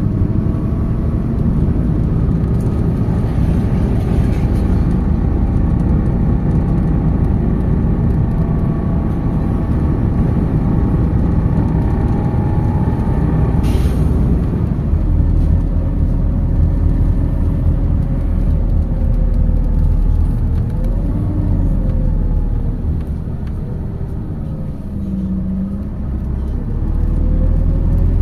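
MAZ 206 city bus under way, heard on board: steady engine and road rumble with a pitched whine that shifts as the bus speeds up and slows. There is a single sharp click about halfway through. Near the end the sound eases off briefly, then picks up again.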